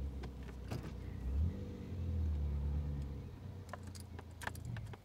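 Car engine running at low revs, with its pitch briefly rising and falling about one and a half seconds in, as the car rolls up and slows to a stop.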